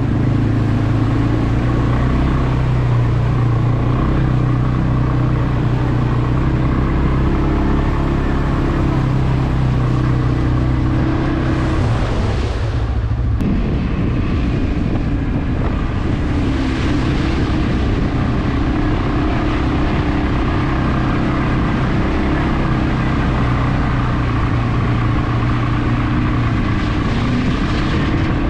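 CFmoto CForce 520 ATV's single-cylinder engine running steadily under way. Its note breaks off briefly about twelve seconds in, then picks up again.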